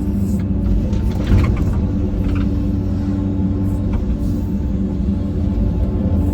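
Diesel engine of a heavy earthmoving machine running steadily at working speed. Short metallic clanks and scrapes come about a second and a half in.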